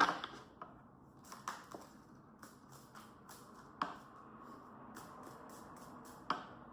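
Tarot cards being shuffled by hand: soft scattered clicks and taps of the cards, with sharper knocks at the start and a few times after.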